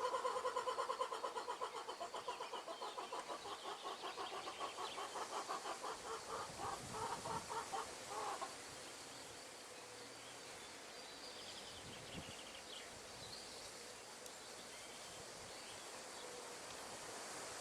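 Wind in trees giving a steady rustling hiss. Over it, for the first eight seconds or so, an animal's low trilling call pulses rapidly and then cuts off suddenly; later come a few faint, high bird chirps.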